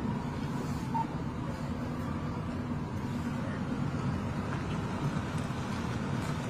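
Steady low rumble of an idling vehicle engine, heard from inside a car's cabin.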